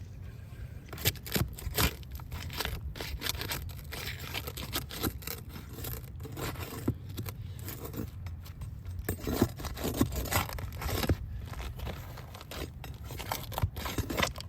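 Roof shingles being pried up and handled, with irregular scraping, crackling and tearing sounds over a steady low rumble.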